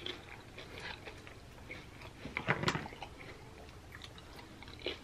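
Close-miked chewing and biting of cheese-covered nachos: wet mouth sounds and small clicks, loudest about halfway through.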